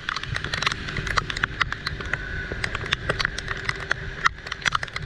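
Heavy rain, with drops striking close to the microphone as dense, irregular sharp ticks over a low steady rumble.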